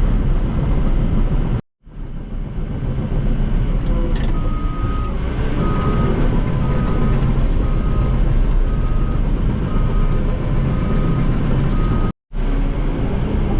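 Heavy diesel earthmoving equipment running steadily, with a backup alarm beeping about once a second from about four seconds in until near the end. The sound cuts out completely for a moment twice.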